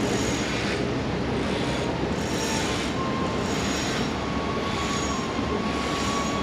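Water rushing over a river weir and down its fish ladder: a steady wash of noise, with a faint thin whine above it that becomes clearer about three seconds in.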